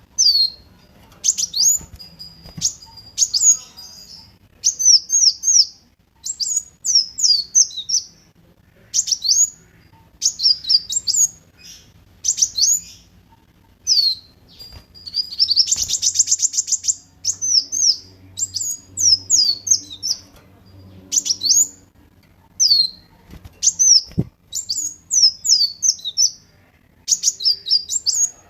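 Kolibri wulung sunbird singing: short bursts of rapid, high-pitched sweeping chirps about once a second, with a longer dense, buzzy trill around the middle.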